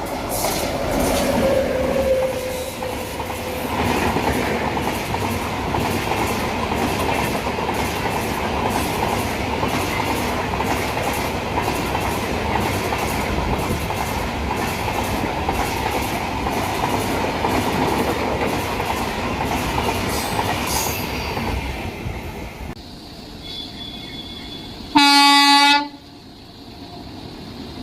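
Moving train on rails, the wheels clattering steadily over the rail joints, until the noise drops away suddenly a little over 20 seconds in. Near the end, a single loud train horn blast about a second long.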